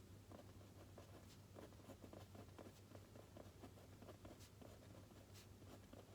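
Faint pen-on-paper writing: quick, irregular scratching strokes with a few light clicks, over a low steady hum.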